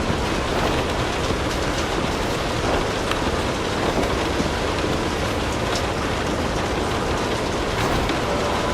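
Steady rain mixed with a crackling wood fire in a fireplace: an even rushing hiss with scattered small, sharp crackles.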